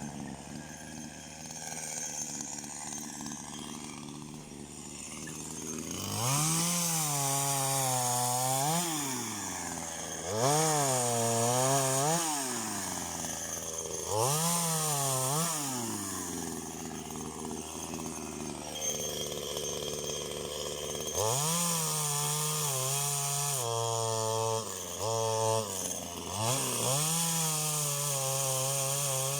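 Chainsaw engine running low for a few seconds, then revved up and let back down three times, each rev lasting two to three seconds. Near the end it is held at high revs, with a few brief dips.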